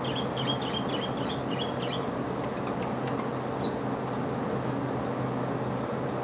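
Small birds chirping, a quick run of short high chirps in the first two seconds and a few more later, over a steady mechanical hum.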